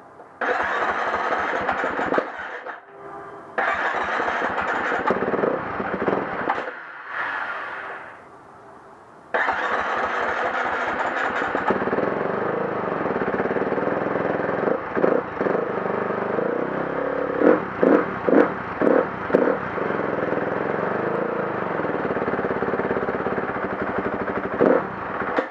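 2011 KTM 350 XC-F four-stroke single-cylinder dirt bike being started with difficulty. It cranks in a few short, separate attempts, then cranks again and keeps running, with a string of short throttle blips later on.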